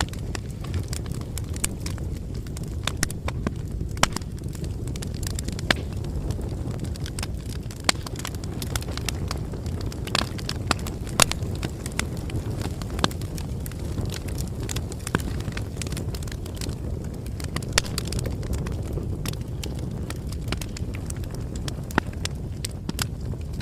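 Bonfire crackling: frequent irregular sharp pops and snaps over a steady low rumble of burning.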